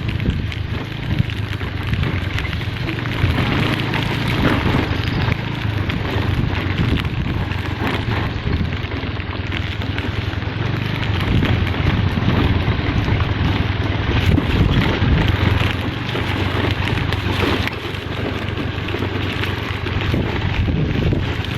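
A vehicle on the move: a steady rushing noise over a low, even engine hum.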